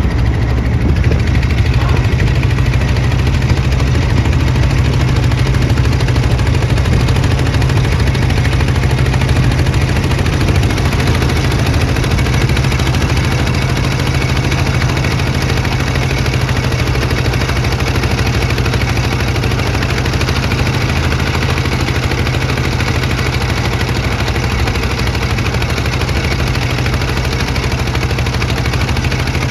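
Boat engine running steadily, with a strong low drone.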